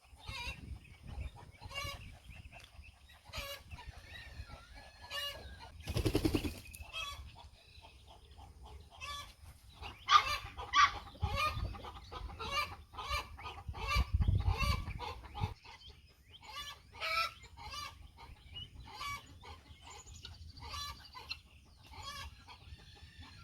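Farm poultry clucking and calling in a run of short, repeated calls, busiest about ten to thirteen seconds in. A brief rustle comes about six seconds in and a low rumble about fourteen seconds in.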